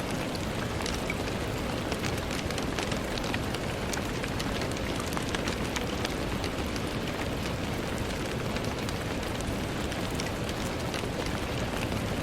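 Steady rain on window glass: an even hiss of rainfall with many individual drops ticking sharply against the pane.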